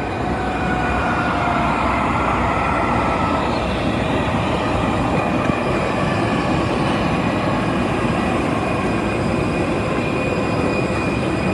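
Loud, steady roar of jet-aircraft machinery at the gate, with a faint whine that falls slightly in pitch over the first few seconds and a thin high tone above it.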